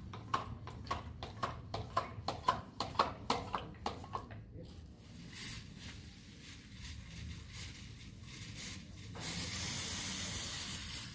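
A quick run of sharp knocks or taps, about three to four a second, for the first four seconds, then a spraying hiss that grows louder about nine seconds in.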